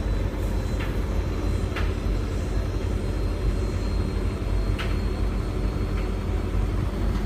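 Beko WS832425s front-loading washing machine spinning at speed: a steady low rumble with a faint high whine and a few light clicks.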